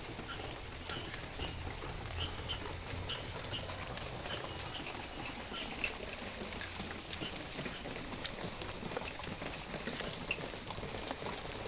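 Rain falling steadily, with many small drops pattering and ticking.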